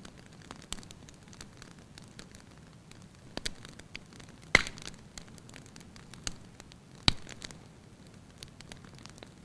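Wood fire in a fireplace crackling over a low hiss, with scattered small crackles and two louder pops in the second half.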